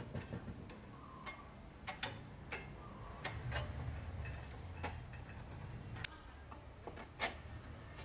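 Irregular light clicks and taps of small carburetor parts and hand tools being handled, about a dozen, the sharpest near the end, over a faint low hum.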